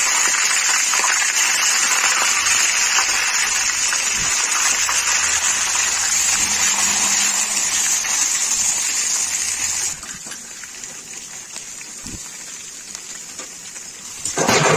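Cauliflower florets sizzling in hot oil in a kadhai, a loud steady hiss that drops to a quieter sizzle about ten seconds in.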